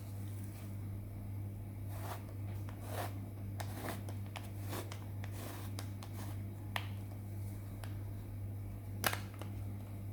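Small handling noises of an unboxing, scattered rustles and light clicks, over a steady low electrical hum. A sharper click comes about two-thirds of the way in and another near the end.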